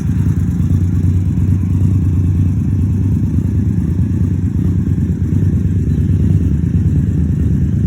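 Indian Scout Sixty's V-twin idling steadily through Vance & Hines Grenades slip-on mufflers, an even low rumble heard from several meters away.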